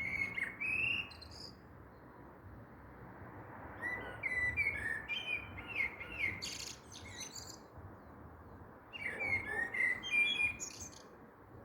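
A songbird singing three short phrases of varied chirps and whistles, a few seconds apart, over a steady background rush.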